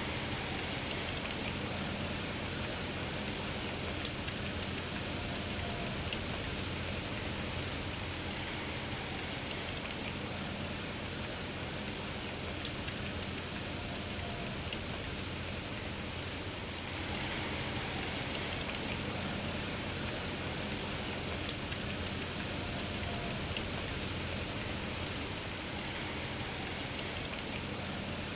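Steady rain falling as an even hiss, with three sharp, louder drop taps spread through it and a few fainter ticks.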